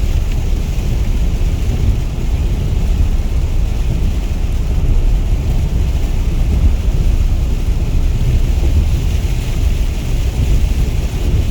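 Steady rain falling, an even hiss over a heavy, continuous low rumble.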